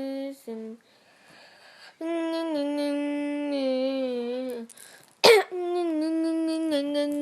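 A child humming long, held notes that slide slightly in pitch, with short pauses between them. About five seconds in, one brief, loud, sharp burst cuts in.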